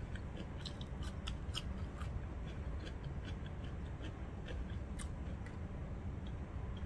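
A person chewing food close to the microphone, with soft scattered mouth clicks over a low steady hum.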